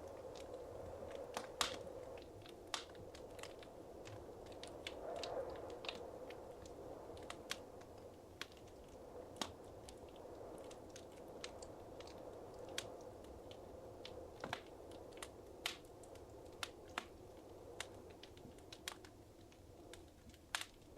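Wood fire crackling in a fireplace: quiet, irregular sharp pops and snaps over the soft steady hiss of the flames.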